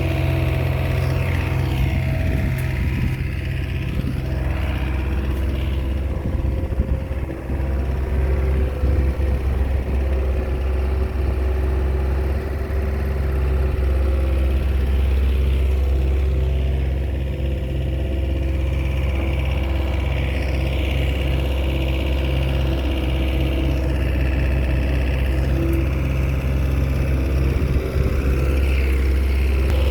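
Small Komatsu bulldozer's diesel engine running steadily as it works, with slight rises and falls in pitch as the load changes.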